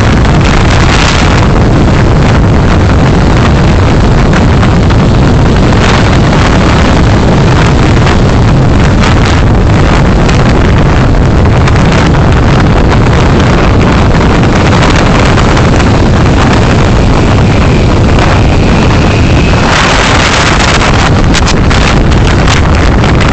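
Loud, steady road and wind noise from a car being driven, as picked up by a dashcam microphone, with a louder rush of noise about twenty seconds in.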